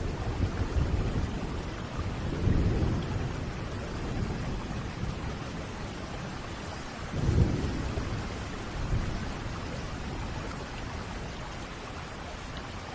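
Steady rain with rolling thunder: several low rumbles, the loudest about seven seconds in, easing off toward the end.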